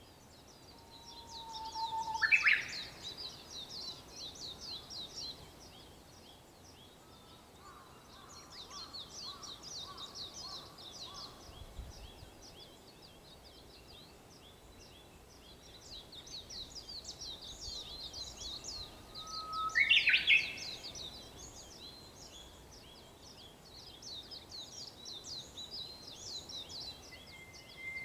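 Japanese bush warbler singing its 'hoo-hokekyo' song twice, each a held whistle followed by a loud, quick burst of notes, with a third beginning at the very end. Other small birds twitter fast and high throughout.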